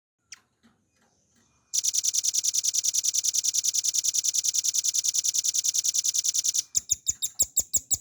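Velvet-fronted nuthatch singing a long, fast, even trill of high notes, about twelve a second, lasting some five seconds. It breaks into slower separate notes near the end, after a single soft chip at the start.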